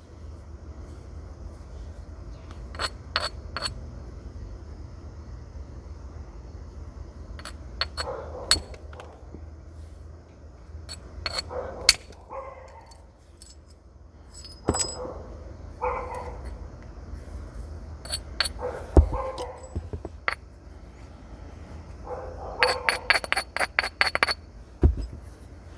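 Flint nodule being knapped with natural stone and antler tools: sharp clicking strikes in scattered clusters, with short scraping sounds between them and a fast run of about ten light clicks near the end.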